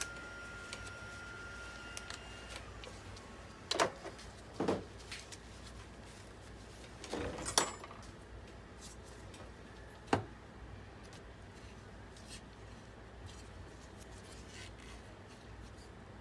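Handling noise of hard parts or tools on a workbench: a few separate knocks and clatters, the loudest about halfway through, with light ticks in between. A faint steady high whine stops about two and a half seconds in.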